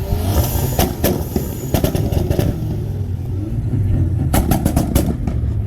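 A car engine being revved, a loud low exhaust rumble with a few clusters of sharp pops.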